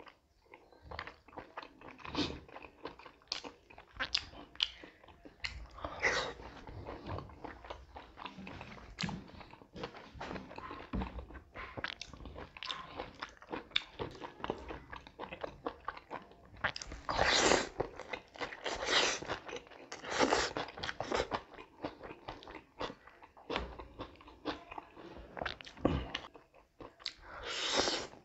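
A person eating close to the microphone: repeated chewing and biting of food, in short irregular smacks. The bites grow louder for a few seconds past the middle and again near the end.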